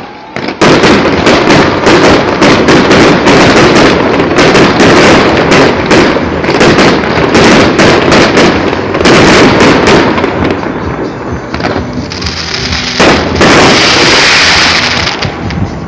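Fireworks going off: a rapid, dense barrage of bangs and crackles starts about half a second in and eases after about ten seconds, then a single loud bang near the end followed by a long hiss.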